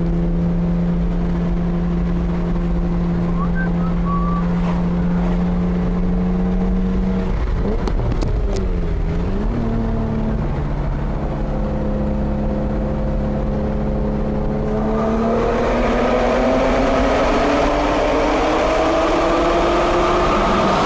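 Honda NSX V6 running through a Pride V2 exhaust with resonated test pipes, inside a tunnel. It holds steady revs at first, and about eight seconds in the pitch dips and climbs back as the revs change. From about fifteen seconds it accelerates, the pitch rising and the sound getting louder.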